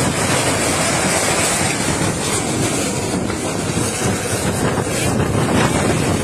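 Steady rushing noise of a boat under way, with wind buffeting the microphone.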